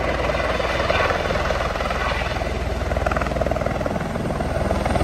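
Helicopter running with a steady, rapid chop of its rotor blades.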